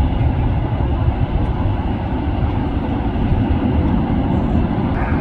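Loud, steady low roar of jet aircraft engines, with no distinct events.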